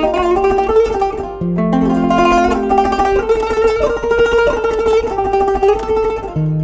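Kanun, the Turkish plucked zither, playing a quick melody of plucked notes over held low notes that shift pitch a few times.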